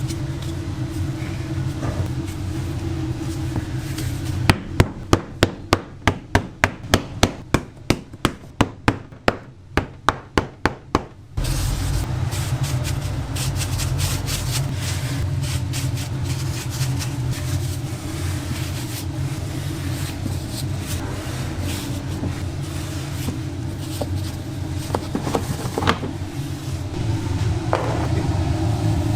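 A steady low hum, broken from about four seconds in by a run of sharp, even knocks, about three a second, for some seven seconds, after which the hum returns.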